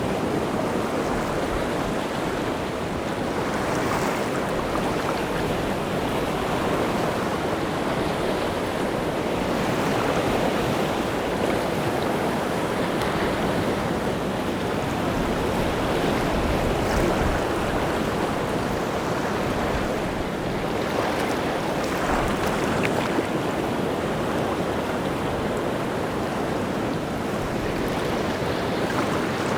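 Rough sea surf: waves breaking in a steady, dense wash, with wind over the water.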